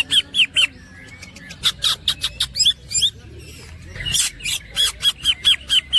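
Cucak ijo (green leafbird) singing in its woodpecker-like 'platukan' style: runs of sharp, clicky, repeated notes at about five a second, broken by short pauses about a second in and again after about three and a half seconds.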